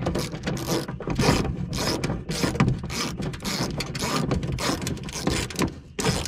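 Hand ratchet clicking in repeated short strokes as it turns a screw holding the window motor inside a car door, the screw not yet snugging down.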